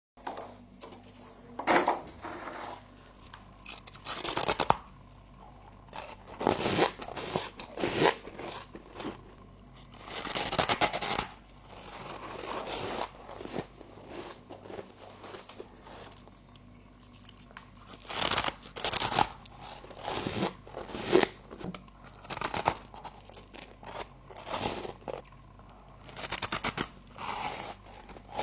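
Frost being grabbed and crunched between the teeth, heard close up as an irregular series of short, crisp crunches with pauses between them.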